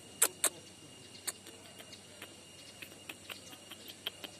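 A series of short, sharp clicks: two loud ones close together just after the start, then many fainter ticks at irregular intervals.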